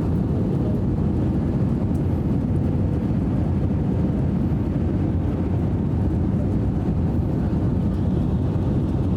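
Steady low rumble of an airliner's cabin noise during the descent to landing, with a faint steady hum above it.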